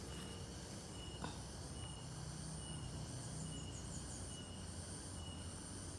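Insects chirping outdoors: a short high chirp repeating roughly every half second over a faint steady high hiss, with a faint click about a second in.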